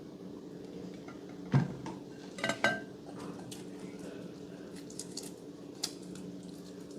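A few sharp knocks and clicks of hard objects being handled, over a steady low hum: one knock about one and a half seconds in, a quick cluster a second later, and a lone click near the end.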